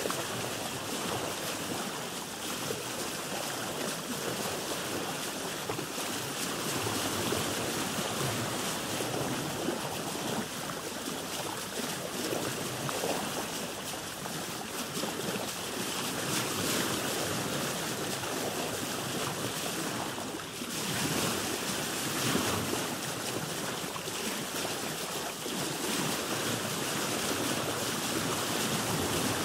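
Ocean water washing around a boat, a steady wash of noise that swells and eases, with a brief lull about twenty seconds in.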